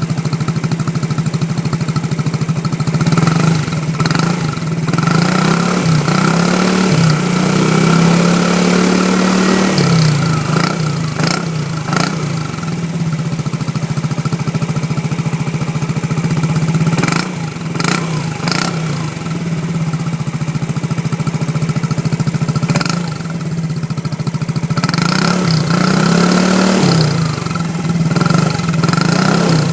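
Yamaha Ciao/Fiore moped's small two-stroke engine running through its muffler, idling steadily and revved up a few times, the longest rev a few seconds long about eight seconds in, each time dropping back to idle. A few short sharp cracks come from the exhaust in between.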